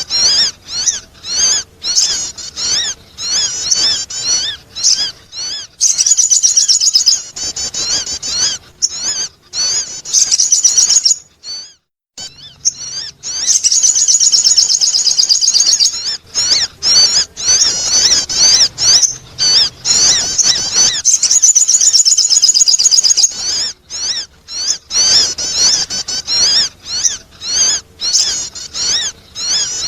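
Sogon bird calling in rapid, high-pitched chirps and twittering trills, a lure call for attracting other birds. Separate chirps alternate with long unbroken runs of fast twittering, with a short pause a little before the middle.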